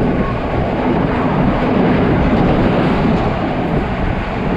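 Steady, loud rumble of a passenger train running at speed, heard at an open carriage window.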